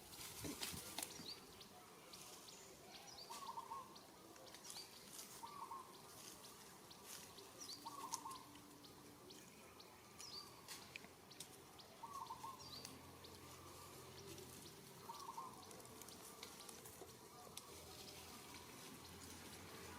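Faint outdoor ambience: a bird repeats a short call every few seconds, with higher chirps and scattered light clicks and rustles.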